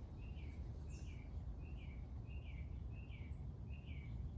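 A bird calling a short down-slurred chirp over and over, roughly every half second, with a higher single note about a second in, over a steady low outdoor rumble.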